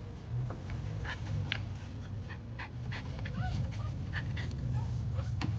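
A dog panting and whimpering in short, quick bursts, over the steady low hum of a car's cabin.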